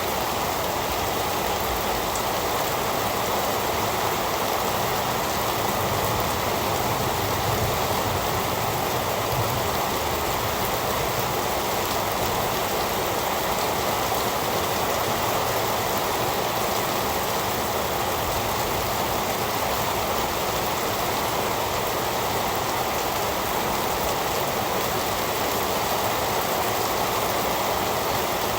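Heavy rain falling steadily, an even, unbroken rushing hiss with no thunder or single drops standing out.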